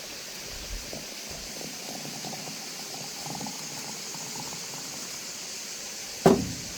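Liquid bubbling and simmering in a pot on the fire, with one sharp knock near the end.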